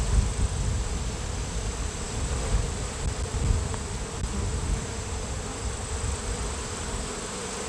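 Honeybee colony buzzing steadily in an open Layens hive while a comb frame is out for inspection, over a low rumble.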